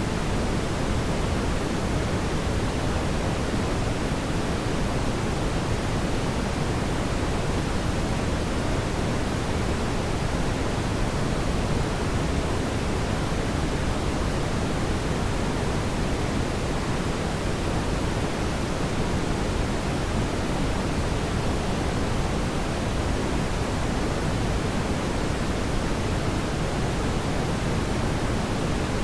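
Fireplace ambience: a steady, even rushing noise, fullest in the low end, with no separate crackles or pops standing out.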